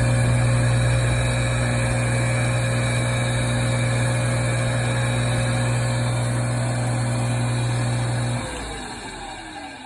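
Sakai ML-360 benchtop lathe running with a steady electric-motor hum. About eight seconds in, it is switched off and spins down, the whine falling in pitch as it fades.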